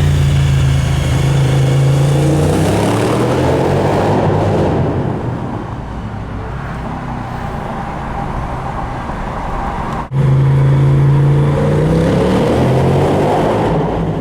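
2006 Suzuki SV1000S's V-twin engine through Two Brothers slip-on exhausts, running hard with its note shifting and then easing off. An edit about ten seconds in cuts to a second loud run of the same engine, its pitch rising slightly near the end.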